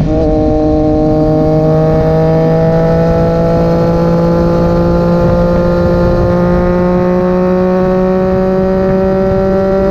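Triumph Street Triple 675's three-cylinder engine running through a Racefit titanium exhaust, held at steady revs that climb slowly and evenly.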